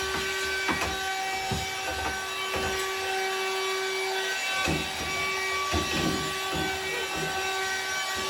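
Scrubbing strokes rubbing against a hard surface, irregular and repeated, over a steady hum of held tones.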